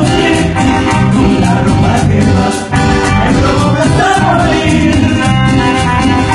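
Cumbia band playing at a steady beat.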